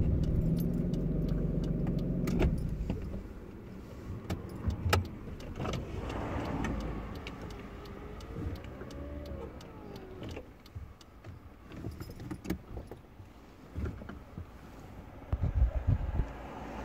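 Nissan Skyline R32's engine idling, then switched off about two and a half seconds in. After that come scattered clicks and rattles inside the stopped car, with a few louder thumps near the end.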